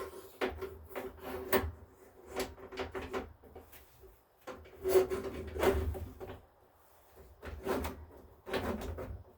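Irregular clunks, knocks and rattles in short clusters, metal parts being worked by hand as the lawn tractor's engine and its wiring are pried loose from the frame.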